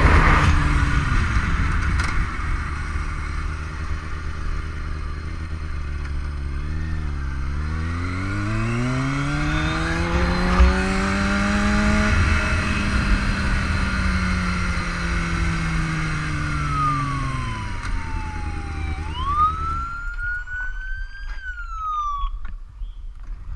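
Motorcycle engine running, its pitch climbing as it speeds up and then sinking as it slows. Near the end a police siren gives a few short falling-and-rising whoops, and the engine sound drops away.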